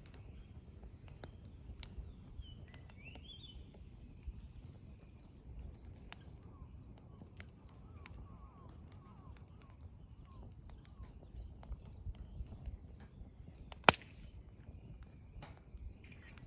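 Wood fire crackling, with scattered small pops and one loud snap about 14 seconds in. Wild birds call faintly in the background.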